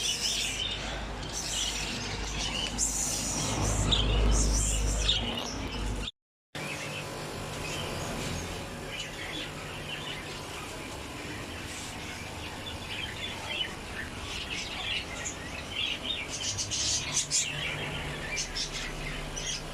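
Many small cage birds chirping and twittering at once, in quick overlapping high calls. A low steady hum sits under them until a brief dropout about six seconds in, and the chirping grows busier near the end.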